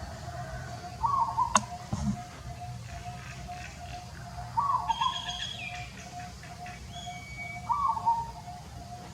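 Birds calling: a short falling call repeats about every three seconds over a steady pulsing background tone, with higher chirps around the middle. One sharp click comes about one and a half seconds in.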